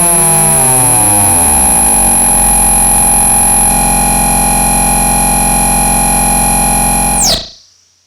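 Two Korg Monotron analog ribbon synthesizers droning together. Their pitches glide past each other and then settle into a steady buzzy drone with a high whine on top. Near the end a high tone sweeps quickly downward and the sound cuts off.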